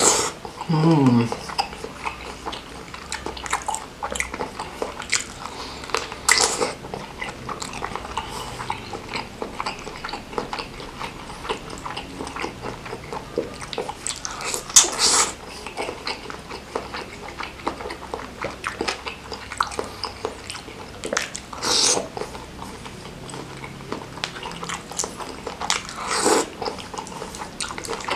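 Close-miked chewing of beef meatballs and noodles in a spicy broth: a steady run of wet mouth clicks and lip smacks. Several louder slurps stand out, one about fifteen seconds in as noodles are drawn into the mouth.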